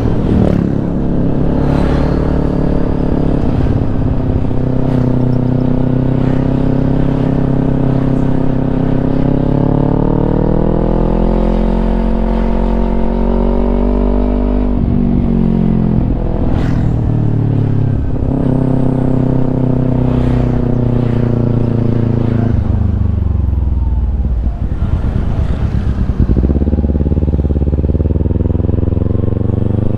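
Kawasaki Ninja 250 parallel-twin engine running through a Yoshimura aftermarket exhaust while riding. The note climbs steadily in pitch, drops sharply at a gear change about halfway through, then rises and falls again with further shifts and throttle changes later on.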